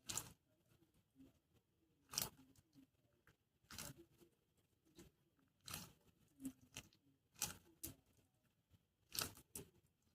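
Plastic packaging crinkling and tearing in short bursts, about every one to two seconds, as squishy toys are handled.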